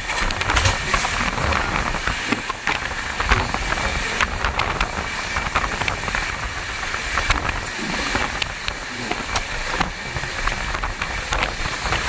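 Moving train running steadily, a continuous rumble and rattle with many small clicks and knocks.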